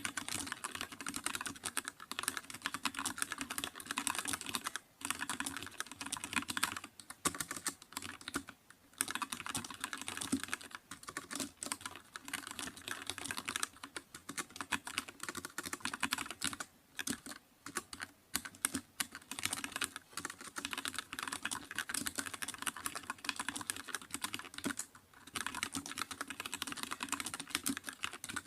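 Continuous fast typing on a computer keyboard: a steady stream of key clicks, broken by short pauses several times.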